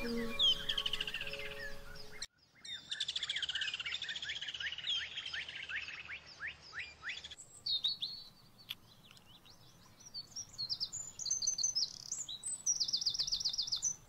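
Birds singing: fast runs of high, falling chirps and trills, then quicker repeated notes near the end. The sound cuts off abruptly about two seconds in and again about seven seconds in, each time resuming after a moment.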